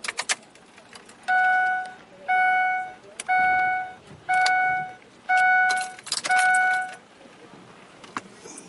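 A few sharp clicks, then a car's electronic warning chime sounding six times, about once a second, each tone steady and even in pitch.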